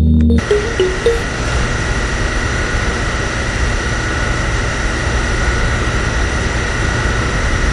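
A small motor running steadily, a dense whirring noise with a faint high whine, after a burst of music stops about half a second in.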